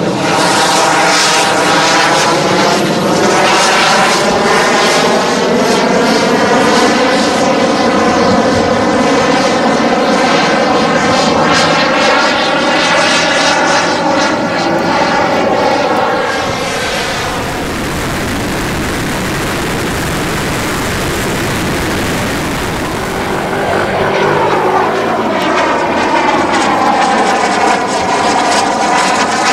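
The twin KingTech K-235 turbine engines of a 1/6-scale Su-30SM model jet in flight, passing by several times, the whine sweeping up and down in pitch as it comes and goes. For several seconds in the middle it thins to a steady, slightly quieter rushing hiss.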